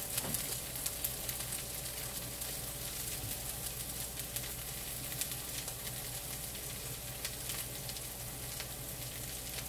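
Vegetable pancake frying in a nonstick pan: a steady sizzle with fine crackles throughout.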